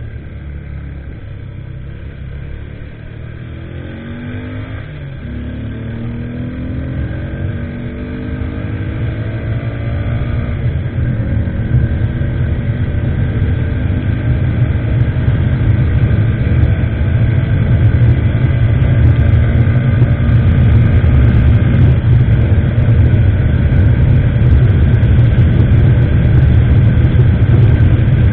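Motorcycle engine accelerating away, its pitch rising several times as it runs up through the gears. Wind noise on the microphone grows louder as speed builds, then holds steady at cruising speed.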